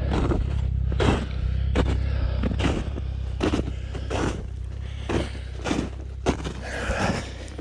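Ski-Doo Expedition snowmobile engine running steadily while riding, with a knock or thump about once a second.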